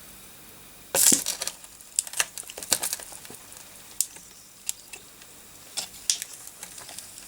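Crackling and sharp clicks as a motherboard's solder joints are pressed into a pot of molten solder to desolder capacitors, with a loud burst of crackling about a second in and scattered clicks after it.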